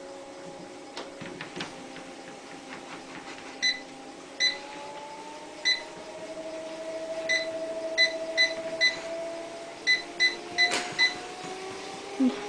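Short electronic beeps, about a dozen at one pitch and irregularly spaced like button presses, over the steady hum of a motor that rises in pitch twice.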